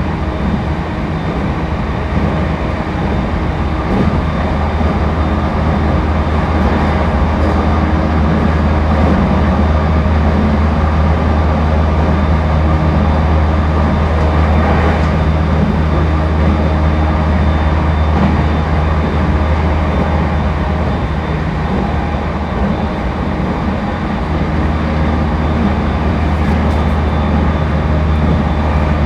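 Interior running noise of a JR East E231 series 1000 commuter train car cruising between stations. A steady, loud low rumble of wheels on rail runs under a few faint steady tones.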